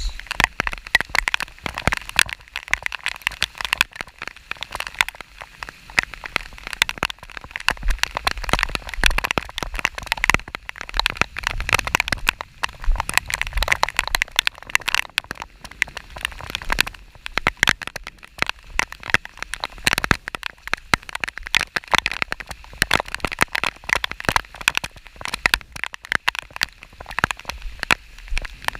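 Rain falling steadily: a dense, continuous patter of individual drop hits.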